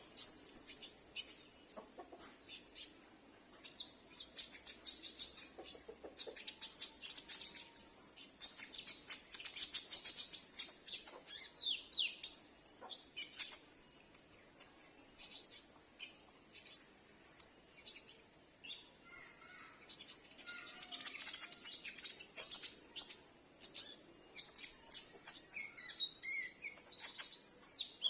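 Olive-backed sunbird calling: a busy string of high, thin chirps and short trills, many sliding down in pitch.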